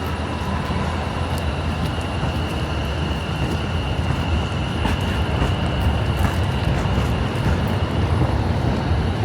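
Electric suburban train running at a platform: a steady low rumble with a thin, steady high whine over it, slowly growing louder.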